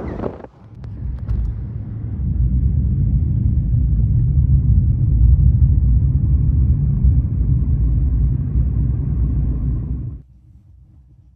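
Steady low rumble of a car on the move, with wind buffeting the microphone. It cuts off suddenly about ten seconds in.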